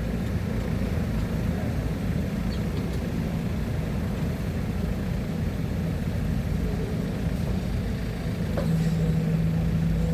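Heavy-equipment engine running steadily with a low rumble; near the end a steady humming tone comes in and the sound gets slightly louder.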